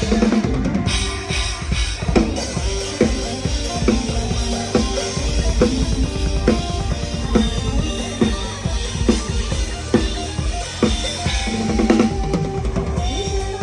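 Live band music driven by a PDP acoustic drum kit: steady kick drum under snare hits a little under a second apart, with other instruments playing over the beat. Recorded close on a phone's microphone.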